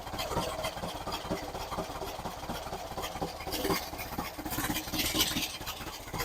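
Engine running steadily during a new camshaft's break-in run, with a hiss rising over it about midway.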